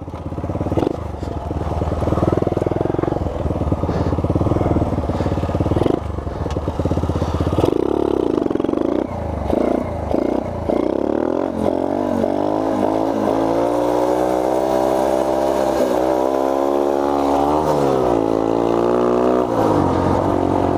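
1986 Honda 50R mini bike's small single-cylinder four-stroke engine running while riding, rough and mixed with wind at first, then a clearer engine note whose pitch climbs, dips and climbs again with the throttle before dropping near the end.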